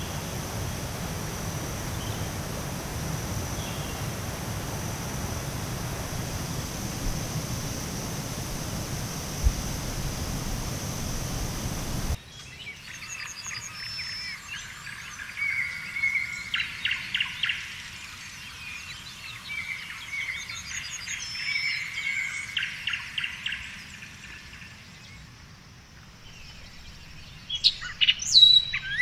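For the first twelve seconds, a steady rushing noise with a continuous high insect drone over it. It then changes abruptly to forest birds singing, with repeated rapid trills twice in the middle and a burst of sharp chirps near the end.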